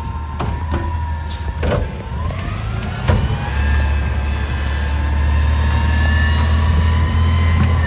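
Garbage truck engine running; about two to three seconds in it revs up and holds there with a steady whine, as when the hydraulics are engaged. A few sharp knocks sound in the first few seconds.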